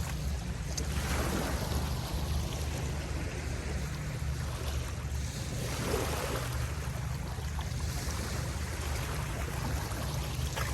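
Steady rush of wind buffeting the microphone, with a low rumble.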